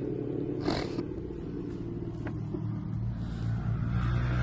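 A steady low mechanical hum, growing slightly louder near the end, with a brief rustle or crinkle just under a second in.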